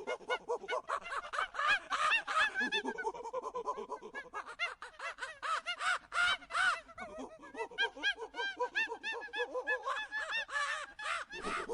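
A group of monkeys calling, many short rising-and-falling cries overlapping several times a second in a busy chatter.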